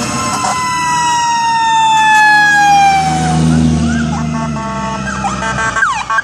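Fire truck siren winding down in a long falling wail over a low truck engine rumble. About five seconds in, a second siren takes over in short rising and falling chirps.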